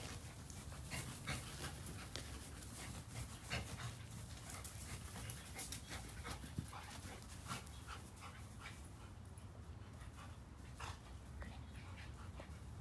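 Dogs panting and scuffling as they chase each other in play, with many short clicks and scuffs that thin out after about nine seconds.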